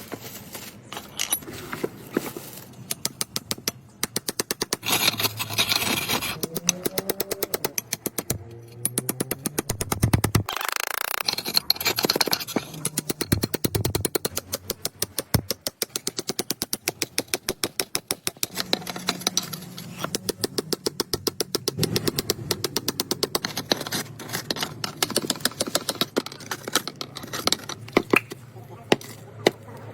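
A BMW M5's twin-turbo V8 running with its catalytic converters deleted, the exhaust crackling with rapid pops.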